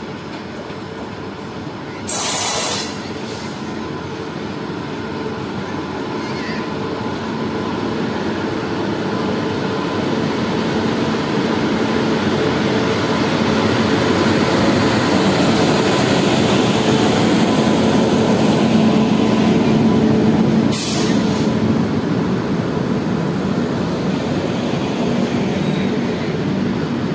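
Electric locomotive and LHB passenger coaches running along the track, the rumble of wheels and machinery growing steadily louder as the locomotive comes closer and passes, then easing slightly as the coaches roll by. A short loud burst of noise comes about two seconds in, and another just after the loudest part.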